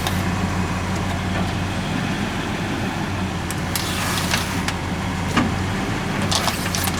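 Truck engine running slowly with a steady low hum as it rolls over a plastic box fan, with scattered sharp cracks and crunches, bunched near the middle and toward the end, as the fan is crushed under the tyres.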